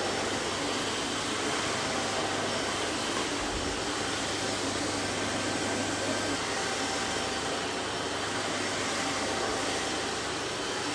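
Vacuum cleaner motor running steadily, an even rushing hiss with a low hum underneath.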